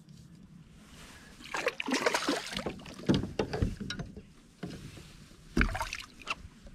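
Knocks and rustling of handling aboard a fishing kayak, in two bouts: a busy one of about two and a half seconds starting about a second and a half in, with a few dull thuds, and a shorter one near the end.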